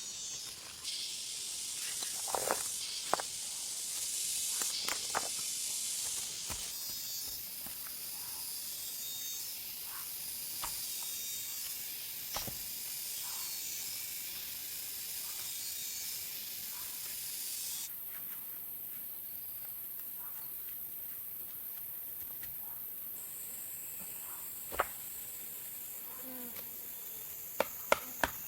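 Steady high-pitched hiss of an insect chorus, its band shifting and thinning about two-thirds of the way through. Scattered small clicks and rustles, and a few sharp knocks near the end.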